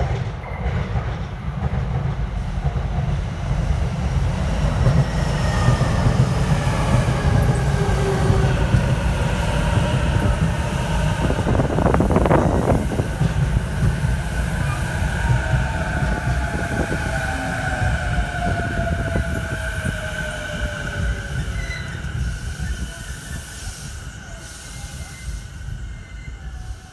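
Saikyo Line E233-7000 series electric train approaching and passing close by: a steady rumble of wheels on rail, with whining tones that slide down in pitch as it goes past. There is a brief louder burst about midway as the train draws level, and the sound fades near the end as it leaves.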